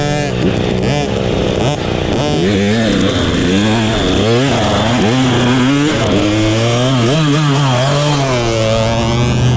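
Dirt bike engines revving up and down over and over, with a steady engine drone underneath that grows stronger in the second half.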